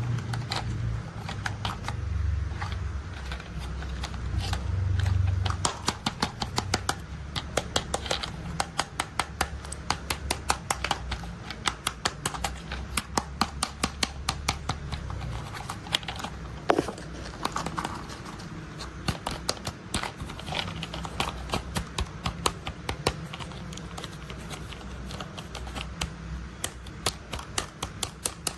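Quick, irregular plastic clicks and rattles from toy construction vehicles being handled, with a low rumble during the first few seconds.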